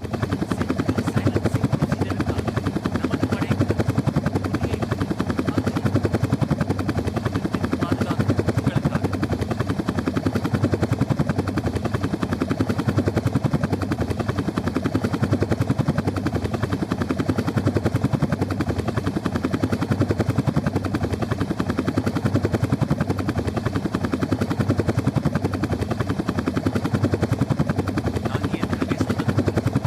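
Helicopter hovering or flying close by, its rotor beating steadily and loudly without letting up.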